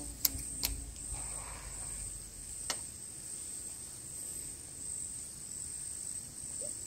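Insects trilling steadily at a high pitch, with a few sharp clicks in the first three seconds.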